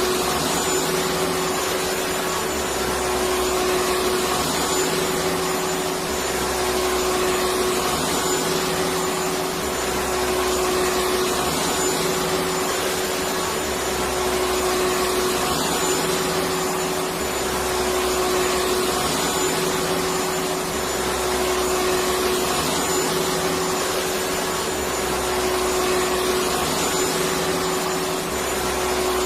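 Electric vacuum cleaner running continuously, a steady motor whine over airflow rush, swelling slightly every few seconds.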